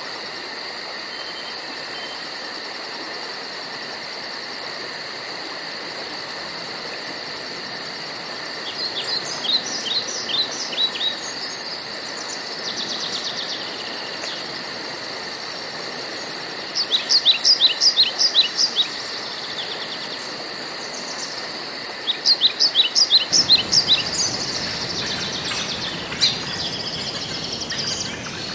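Woodland ambience: a steady high drone of insects with a fast pulsing insect trill above it, and a songbird singing three phrases of quick, sweeping notes several seconds apart.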